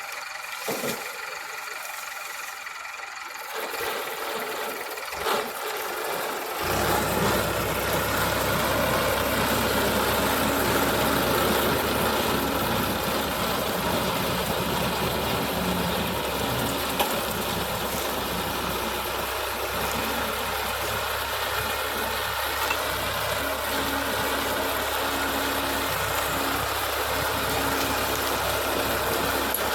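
Sugarcane harvester running. Its engine and machinery get suddenly louder and deeper about seven seconds in, then run steadily.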